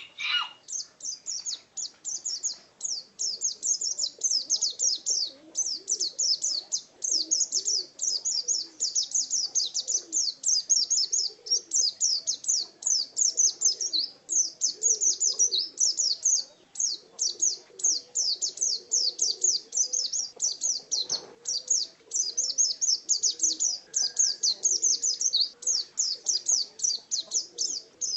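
A pleci (white-eye) singing its 'ngalas' song: a rapid, nearly unbroken stream of high-pitched chirps and trills.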